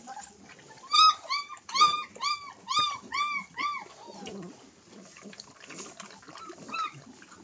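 A dog yelping and whining: a quick run of about seven short, high yips, then quieter whines and one last yip near the end.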